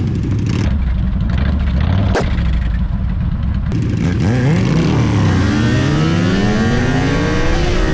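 Motorcycle engines revving and accelerating, their pitch falling and then rising again in several overlapping sweeps, with a single sharp click about two seconds in.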